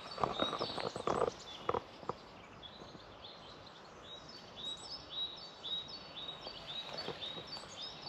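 Songbird singing a short high two-note phrase over and over, about twice a second, from a few seconds in. A few louder rustles come in the first couple of seconds.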